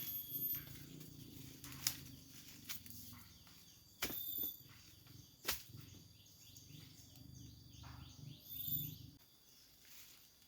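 Forest ambience of birds and insects, with high thin trills and a run of quick chirps, broken by a few sharp knocks or snaps. Low rustling handling noise underneath stops near the end.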